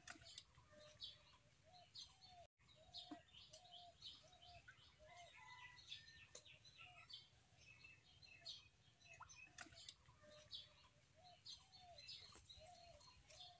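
Faint birds chirping: many short high notes, mixed with a lower short call repeated about twice a second at times.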